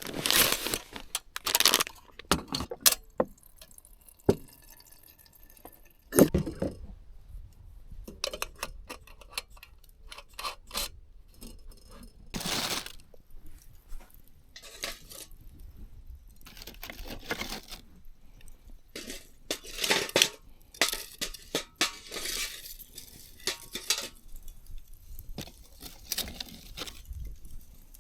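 Tableware and glasses clinking and knocking as they are handled, in a string of irregular short clinks.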